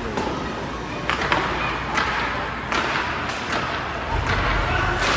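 Ice hockey play: a series of sharp clacks and knocks of sticks and puck, about eight in five seconds, over a steady rink noise.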